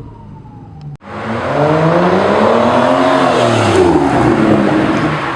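2014 Aston Martin Vanquish's V12 engine through a Titan aftermarket exhaust, running low for about a second, then starting abruptly loud, its pitch climbing and falling again over about four seconds as it revs.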